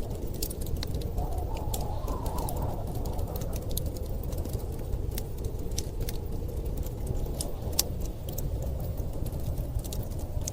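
Wood fire crackling with frequent small sharp pops over a steady low rush of storm wind that swells slightly about two seconds in. One pop, about three quarters of the way through, is louder than the rest.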